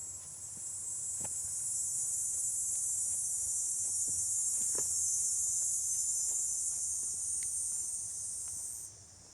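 An insect's continuous high-pitched buzzing drone that swells in over the first second or two, holds steady, and cuts off suddenly near the end.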